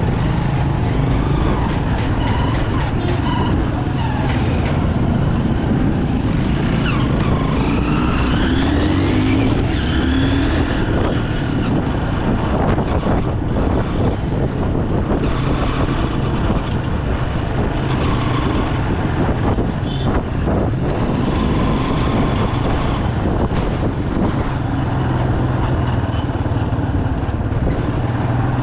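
Bajaj Pulsar 200 single-cylinder motorcycle engine running on the move, with steady road and traffic noise. Several tones glide up and down between about six and ten seconds in.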